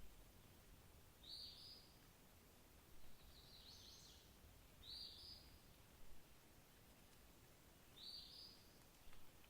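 Faint bird calls: several short, high chirps a second or two apart, over quiet steady background noise.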